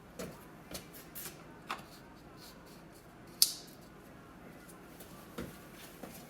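Scattered small clicks and taps of objects being handled, with one sharper, louder click about three and a half seconds in.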